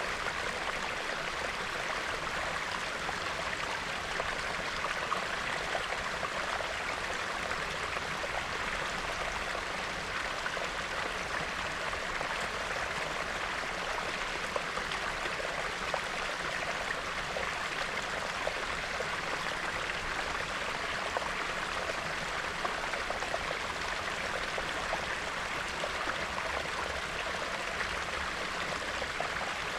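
Small clear stream, mostly snowmelt, bubbling and trickling steadily over rocks.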